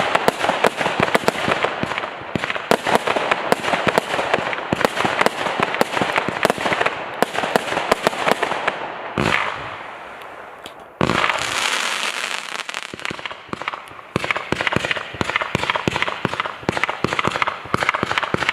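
Fireworks going off: a dense run of rapid, sharp cracking reports. Partway through it thins to a lull broken by two single louder bangs, then the rapid cracking picks up again.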